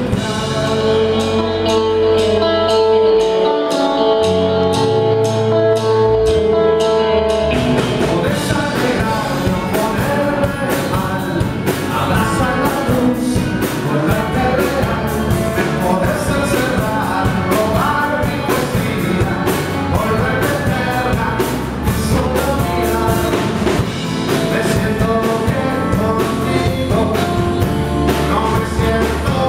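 Live rock band playing a song with a singer: guitar, bass and drum kit. Held chords in the first several seconds give way to busier full-band playing.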